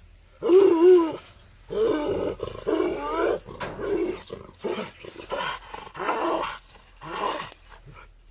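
A Kohati Gultair dog giving a series of about eight short barks and growls, each with a bending pitch.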